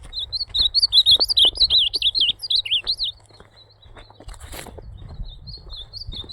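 Ultramarine grosbeak (azulão) singing: a loud, rapid, warbling phrase of about three seconds, then a quieter, shorter phrase near the end. Faint clicks and a low hum lie underneath.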